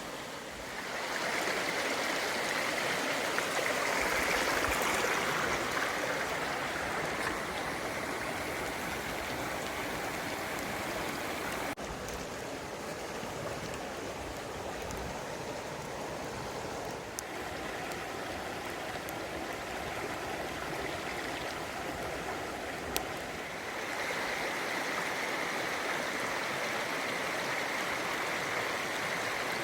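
A creek's water running steadily over rocks, an even rush that is louder in the first few seconds and again near the end.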